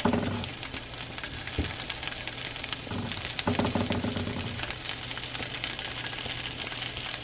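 Cut-up sausages frying in butter in a pan, a steady crackling sizzle, with a few knocks near the start and in the middle.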